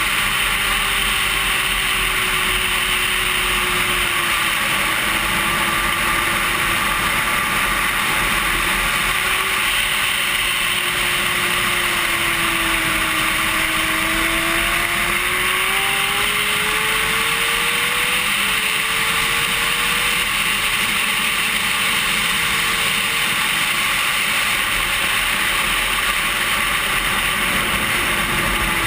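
Wind rushing over a racing sport bike's onboard camera, steady and loud, with the motorcycle engine's note audible underneath, slowly rising and falling as the revs change.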